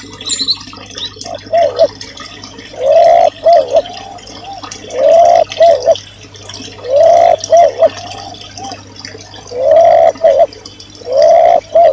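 A low-pitched bird call repeated about every two seconds, each phrase a rising-and-falling note followed by two short quick notes, used as a masteran recording for training songbirds.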